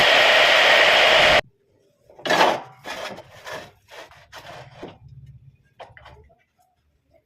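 Homemade wood lathe running with a loud steady rushing noise that cuts off abruptly about a second and a half in. Then a run of separate rubbing and scraping strokes on wood, with a faint low hum under them.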